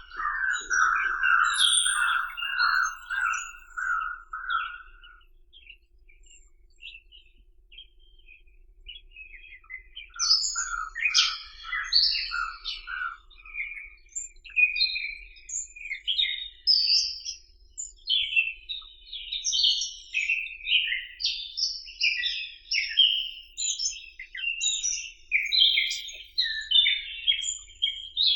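Small birds chirping and twittering in many quick, short notes, with a lower, steadily repeated call in the first few seconds and again about ten seconds in, and a quieter spell between.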